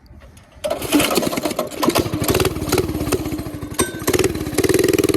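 Coleman mini bike's small single-cylinder engine, fitted with an aftermarket exhaust, starts about half a second in and keeps running, its revs rising and falling unevenly.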